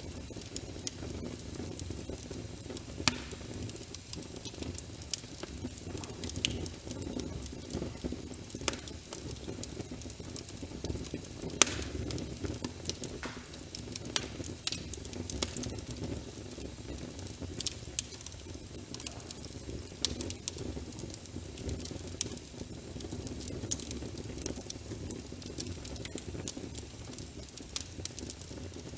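Wood fire in a fireplace crackling, with frequent sharp pops and snaps; the loudest pops come about 3 and 11 seconds in. Under it runs a steady low rush of rain.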